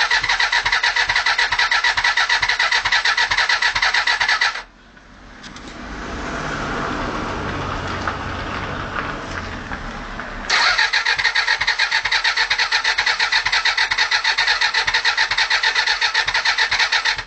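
Suzuki Bandit 400 inline-four turned over by its electric starter motor in two long bouts of fast, even cranking, with a quieter, lower sound of about six seconds between them. The engine does not catch: it spins but will not start despite sparking plugs and fresh fuel.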